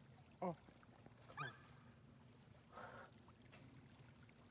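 Two short, loud honking bird calls about a second apart, then a fainter call about three seconds in, over a faint low background.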